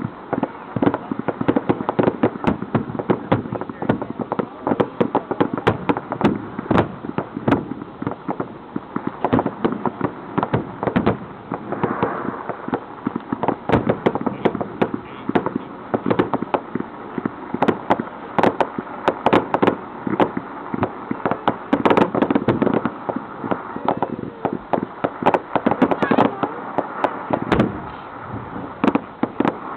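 Fireworks display going off, a rapid string of many bangs and crackles that comes back again and again.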